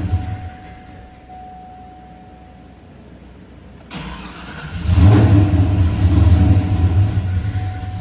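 Supercharged 416 ci V8 trying to start: it dies away just after the start, then catches again about four to five seconds in and runs roughly, surging and sagging instead of settling to an idle. It will not hold an idle, which the owner blames on a cam that is too big.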